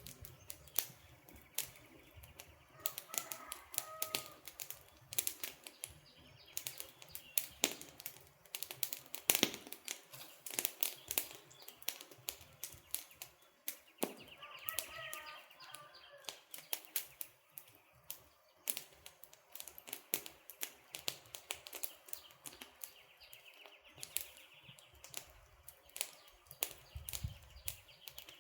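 Wood campfire crackling steadily with many sharp, irregular pops and snaps. Short bird chirps come through twice, about three seconds in and again around fifteen seconds.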